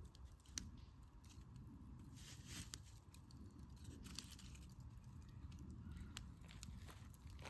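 Firewood burning in a campfire, crackling faintly with scattered sharp pops.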